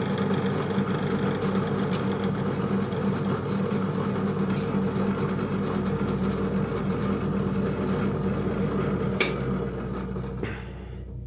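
SK11 SDP-600V 600 W bench drill press running steadily with a steady motor hum. A sharp click comes about nine seconds in, and the sound gets quieter near the end.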